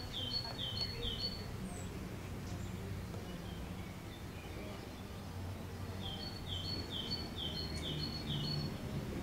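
A songbird singing a phrase of about six repeated two-note calls, a short high note then a lower falling one, near the start and again about six seconds in, over steady low outdoor background noise.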